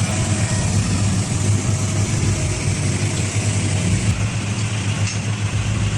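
A heavy vehicle's engine running steadily with a low drone.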